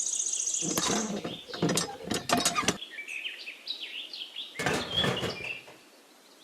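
Birds chirping over a high insect trill that fades about a second in, broken by two spells of knocking and rattling, the first around the first two seconds and the second just before the end.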